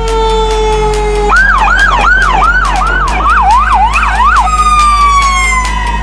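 Fire engine's electronic siren: a slowly falling wail that switches about a second in to a fast yelp for about three seconds, then drops back into a falling wail, over a steady low rumble.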